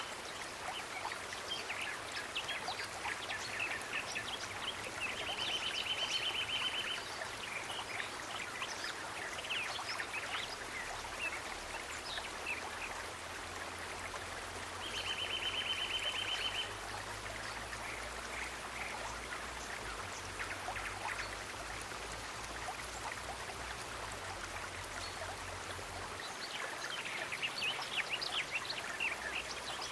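Steady rush of a flowing stream, with birds chirping in short calls throughout. A buzzy trill of about two seconds comes twice, about ten seconds apart.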